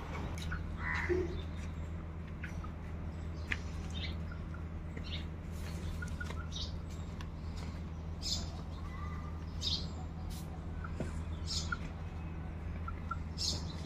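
Birds calling: short chirps scattered throughout, with a few lower calls, over a steady low hum.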